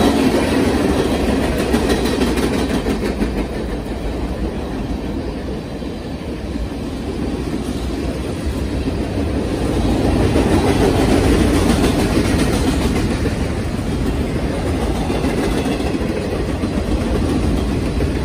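Freight cars of a Norfolk Southern train rolling past close by: a steady rumble and rattle of steel wheels on the rails. It swells near the start and again about ten seconds in, easing a little in between.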